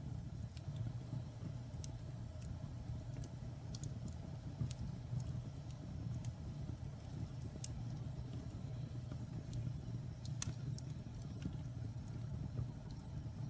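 Burning firewood in a fireplace: a steady low rumble of flames with scattered sharp crackles and pops from the wood, one louder pop about ten seconds in.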